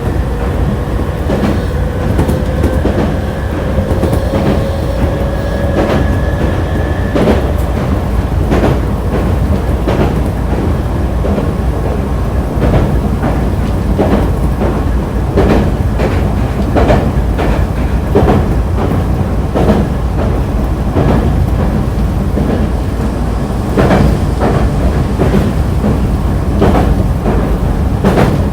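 Nankai Kada Line train (set 2036F) running: a faint tone rises slowly in pitch for about the first seven seconds, then wheels click steadily over rail joints above a steady low rumble.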